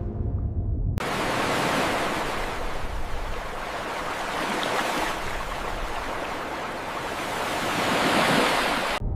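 Ocean surf: a steady rushing of water that swells and eases, starting abruptly about a second in and cutting off suddenly just before the end.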